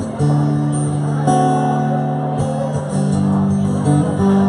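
Live band music: guitar strumming sustained chords in an instrumental passage between sung lines, the chords changing every second or so.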